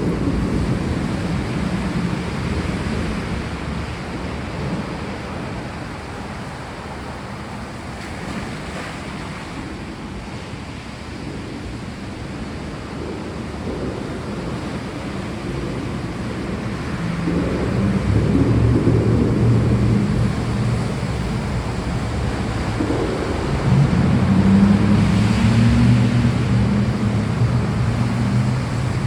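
Steady rain with low rolling thunder; the rumble swells louder about two-thirds of the way in and again near the end.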